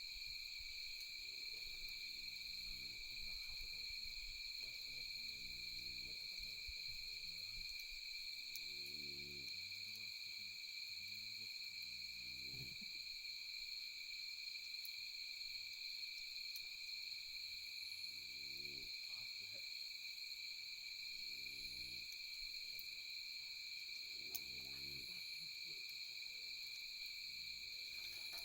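Night insects, crickets or similar, trilling steadily in a high-pitched chorus, with a few faint crackles from a campfire. A low pitched call sounds now and then, about seven times, each under a second.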